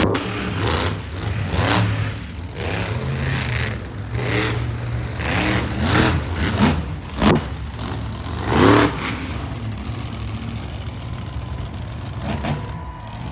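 Monster truck engine idling with a low steady rumble, revved up and back down in several short bursts.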